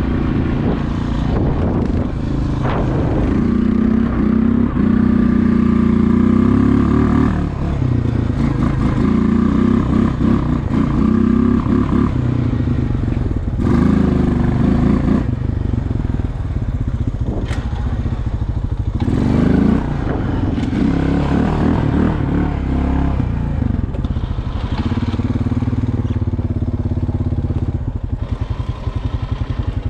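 Small plow vehicle's engine working hard, rising and falling in pitch in several pushes as it moves snow, with a few clattering knocks and scrapes.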